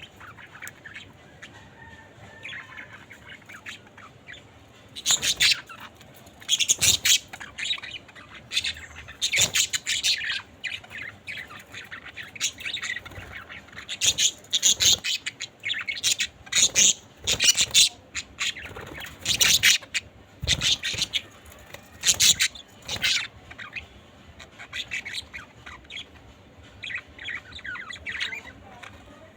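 Budgerigars chirping and squawking in short, loud, high-pitched bursts, with softer chirping at the start and near the end.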